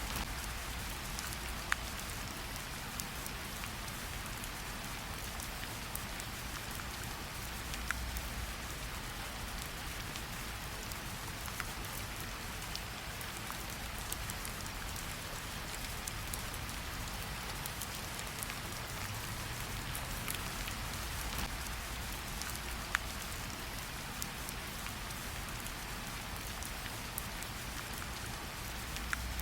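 Steady gentle rain pattering on tree leaves, a soft even hiss with scattered sharper ticks of single drops.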